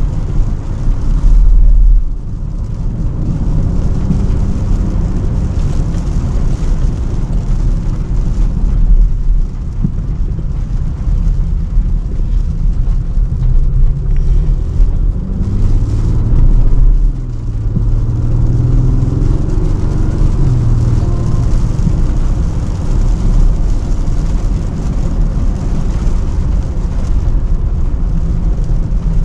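Car driving through city traffic on wet roads: a steady low rumble of tyres and engine. An engine note rises and falls about halfway through.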